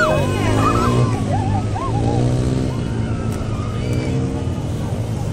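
Motor vehicle engines running steadily, with higher sliding tones over them for the first three seconds.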